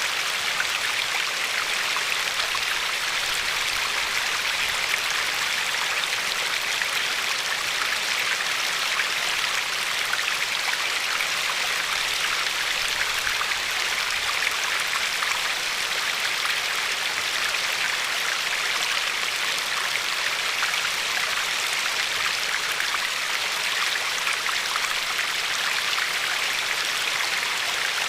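Glacier-fed river flowing and lapping over a pebble shore: a steady, even rush of water with no change.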